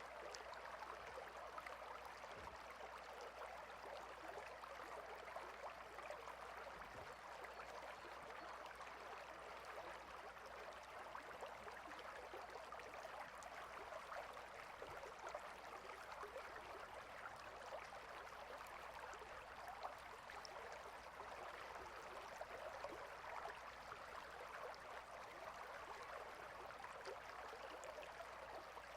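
Water stream flowing steadily: a faint, even rush of running water.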